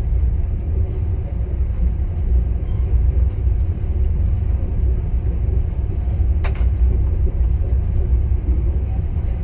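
Steady low rumble of riding aboard a moving passenger train, with one sharp click about six and a half seconds in.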